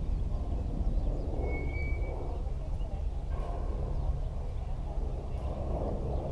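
Outdoor ballfield ambience: a steady low rumble with a faint murmur, and one short high chirp or whistle about two seconds in.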